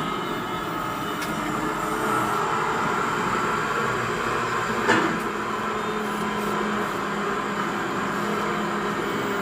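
Radio-controlled model CAT 336D excavator running with a steady mechanical drone, with one short sharp knock about five seconds in.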